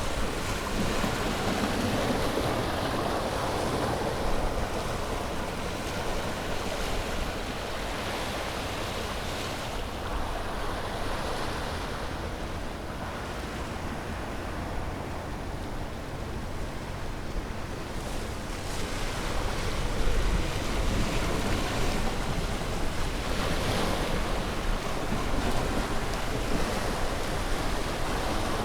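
Sea waves breaking and washing on a shore, a continuous surf wash that ebbs for a while in the middle and swells again about two-thirds of the way through.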